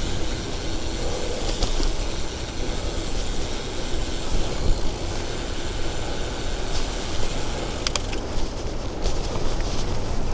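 Steady wind and rolling road noise from a bicycle ride, with a few sharp clicks from the bike.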